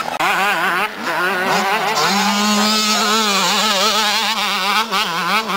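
Motocross motorcycle engines running at high revs, their pitch wavering up and down with the throttle.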